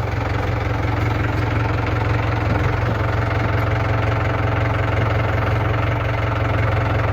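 Engine of a loader idling steadily, an even low throb that does not change.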